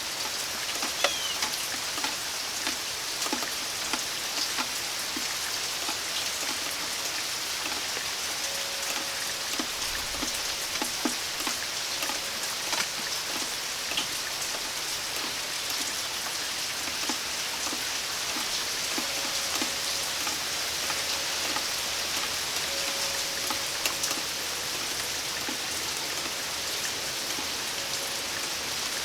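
Steady rain falling, with many individual drops ticking close by throughout.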